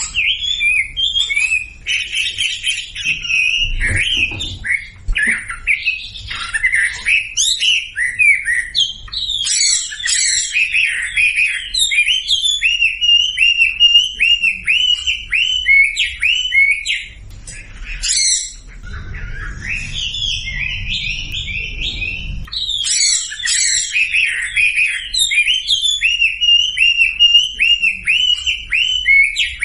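Wambi birds singing a fast, continuous stream of high chirps and trills, several voices overlapping, with a brief lull about eighteen seconds in. Masteran song of the kind played to prompt silent wambi birds to sing along.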